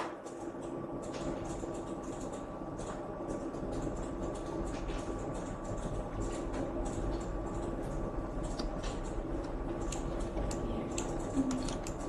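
Scattered clicks of a computer mouse and keyboard over a steady machine hum; a low rumble joins the hum about three and a half seconds in.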